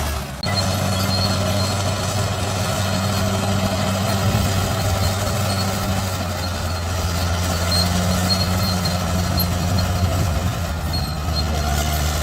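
Heavy diesel engine of a bulldozer running steadily, with a brief drop in level just after the start.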